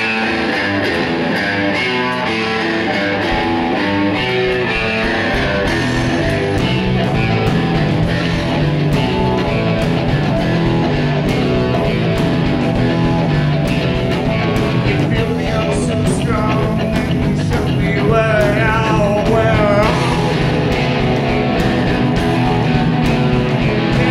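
Live rock band playing a song's instrumental opening on electric guitar and lap steel guitar over bass and drums. The bass and drums come in after a few seconds.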